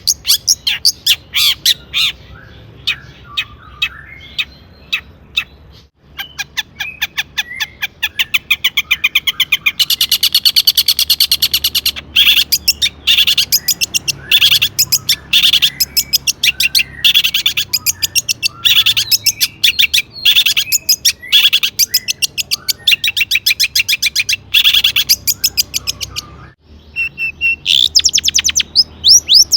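Long-tailed shrike (cendet) in full song: fast runs of sharp, harsh repeated notes alternating with softer warbled phrases, its song filled with mimicry of other birds. It stops briefly twice, about six seconds in and near the end.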